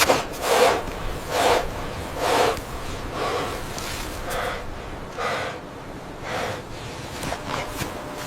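A person breathing hard in short, regular puffs, about one breath a second.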